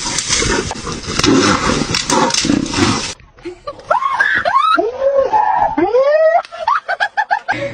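A rough, noisy stretch, then after a sudden cut about three seconds in, a run of short animal calls, each rising and falling in pitch.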